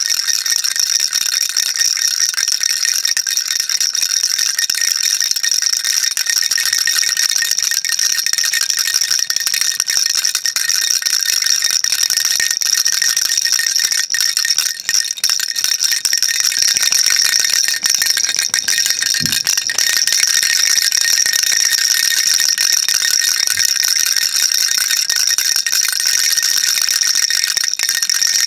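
Baby rattle shaken continuously: a dense, unbroken patter of small beads clattering inside the toy, bright and high-pitched.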